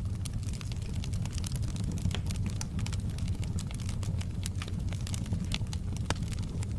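Wood fire burning in a fireplace: a steady low rumble of flames with frequent irregular crackles and small pops from the burning logs.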